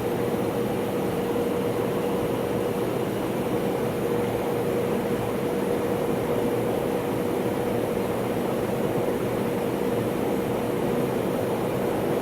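Steady cabin noise inside an MD-83 airliner heard from a forward window seat: an even rush of engine and air noise with a constant hum near 500 Hz, unchanging throughout.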